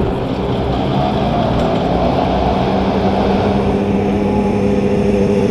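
Motorcycle engine running at a steady pitch as the bike rides in at about 25 mph for a front-brake-only stop.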